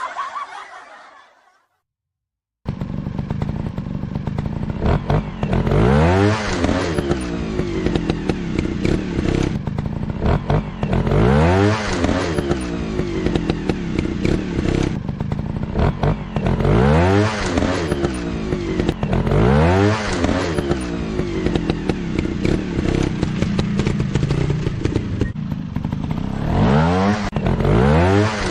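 Motorcycle engine revving hard over and over, its pitch climbing in repeated sweeps every few seconds. It starts abruptly after a short silence near the beginning.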